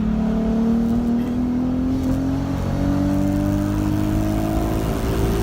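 Nissan Z's V6 running through a full ISR aftermarket exhaust with a new ISR Y-pipe while the car is driven, its note rising slowly as the car accelerates.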